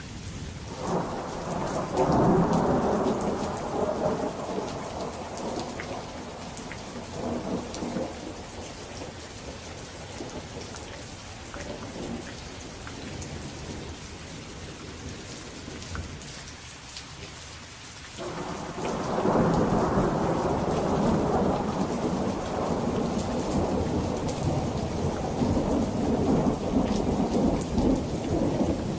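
Steady rainfall with two long rolls of thunder: one rumbling up about a second in and dying away over several seconds, and a louder one breaking suddenly about two thirds of the way through and rolling on to the end.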